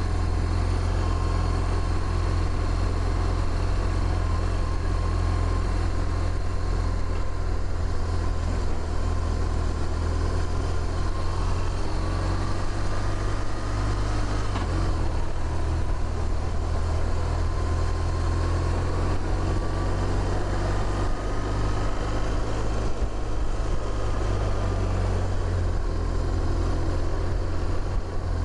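BMW motorcycle engine running steadily while riding, a constant low hum, with wind rushing over the microphone.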